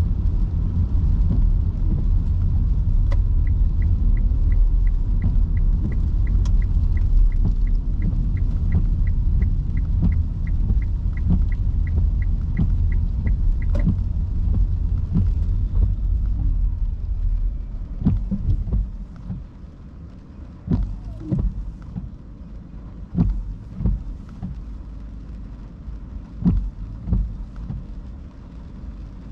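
Car cabin in heavy rain: a steady low rumble of tyres on wet road, with a turn-signal indicator ticking evenly, a little over twice a second, for about ten seconds. After about 18 s the rumble falls away as the car slows, leaving scattered knocks of rain on the body.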